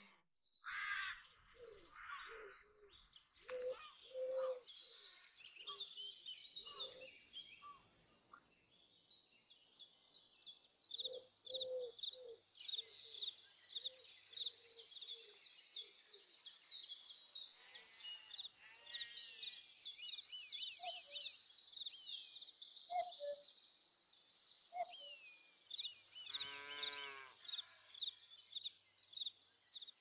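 Small birds singing and calling: fast runs of high-pitched repeated notes, with scattered lower call notes and a short lower call near the end.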